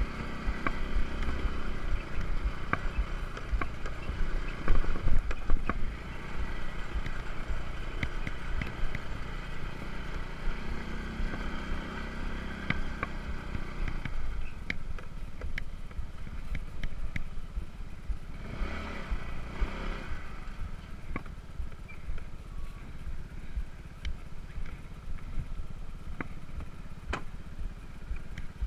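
Small scooter engine running under way on a rough, sandy and stony track, with frequent clicks and knocks from the bumps and a heavy low rumble throughout.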